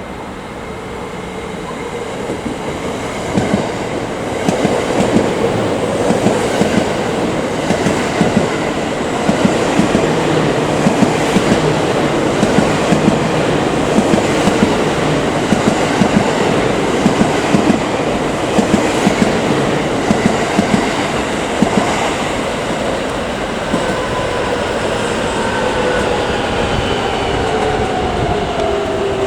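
Electric train passing close by, its wheels clacking in a long irregular run over rail joints and turnout. The clacking stops about two-thirds of the way through, and near the end several whines fall in pitch.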